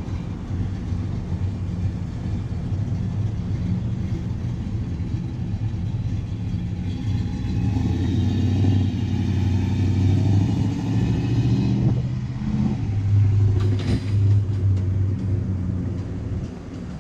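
Cars driving slowly past with their engines running, getting louder through the middle of the stretch as they come close. A brief sharp sound about fourteen seconds in.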